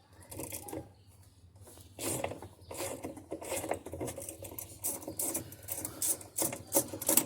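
Ratchet wrench with a 14 mm socket clicking rapidly and rasping as a nut on the washing machine is loosened, starting about two seconds in.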